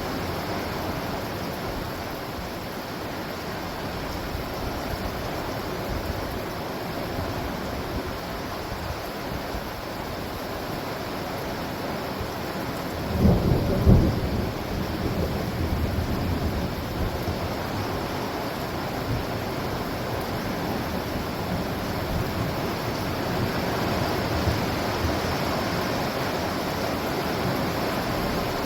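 Steady rain falling through a thunderstorm, with a loud thunderclap about halfway through that rumbles on for a few seconds.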